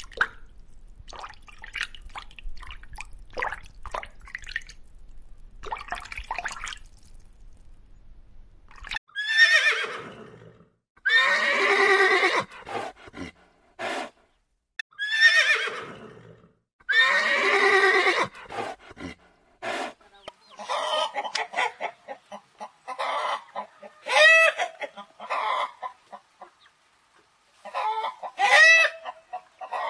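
Faint scattered clicks for about nine seconds, then horses whinnying, four long neighs, followed by chickens clucking with a few louder squawks near the end.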